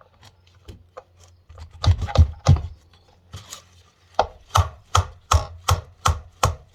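Repeated knocks on a part of a Mahindra 5010 tractor's front final drive as it is worked loose. A few light knocks come first, then three heavy blows about two seconds in, then a steady run of strikes at nearly three a second from about four seconds in.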